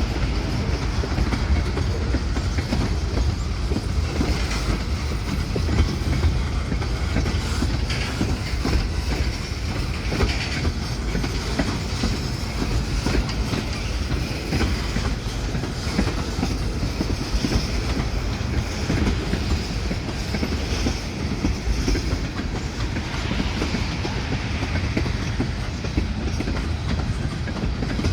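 Train cars rolling past with a steady rumble, wheels clicking over the rail joints; no horn is sounding.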